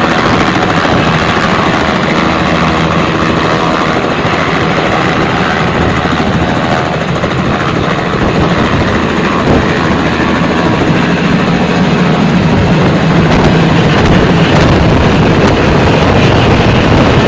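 Helicopter flying, its rotor chop and engine running loud and steady, swelling slightly louder over the last few seconds.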